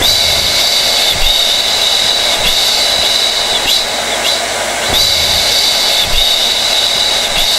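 Hair dryer running steadily: an even rush of air with a high whine from the motor.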